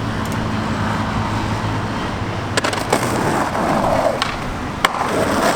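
Skateboard wheels rolling on pavement with a steady rumble, and a few sharp knocks in the second half.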